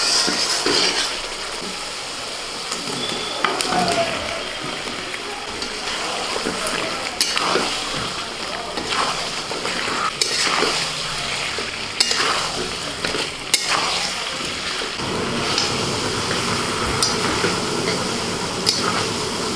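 Potato chunks frying in oil and spice paste in a metal kadai, a steady sizzle. A spatula scrapes and knocks against the pan many times as the potatoes are stirred.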